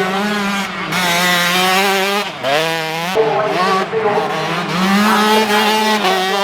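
125cc two-stroke motocross bikes racing, engines revving up and down as the riders work the throttle and gears. About two and a half seconds in the pitch drops sharply as a rider shuts off, then climbs again.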